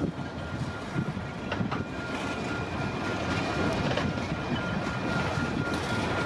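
CPKC freight train's cars rolling slowly past on the rails: a steady rumble with occasional wheel clicks and a thin, high, steady squeal.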